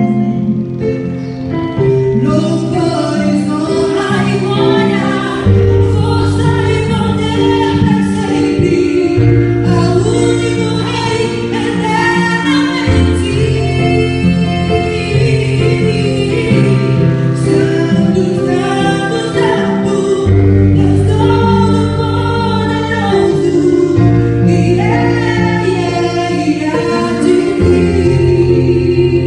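Christian worship song sung by a female-led group of voices, choir-like, over band accompaniment with sustained bass notes that change every few seconds.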